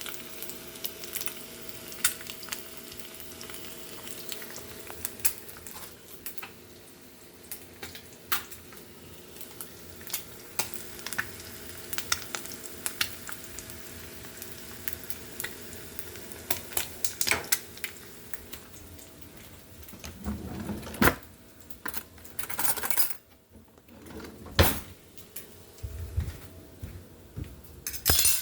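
Metal utensils clinking and scraping against a pan over a faint sizzle of eggs frying, with several louder clatters in the last third.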